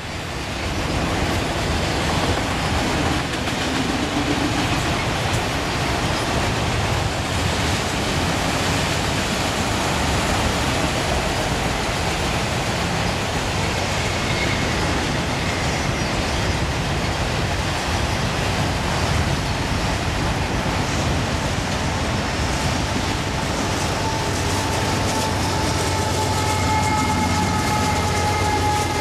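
A train rolling past with a steady rumble and clatter. A thin, steady whine joins about three-quarters of the way through.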